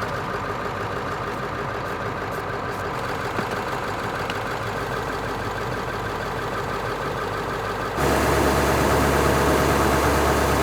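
Ford F-350 pickup's diesel engine idling steadily shortly after a cold start. About eight seconds in, the sound steps up in loudness and a deep hum comes in.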